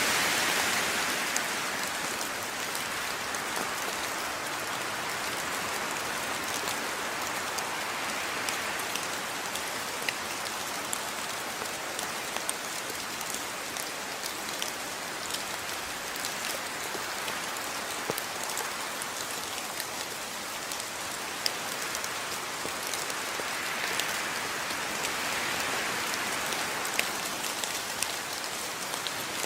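Steady rain falling, an even hiss with many small drops ticking and a few louder drips, swelling and easing slightly.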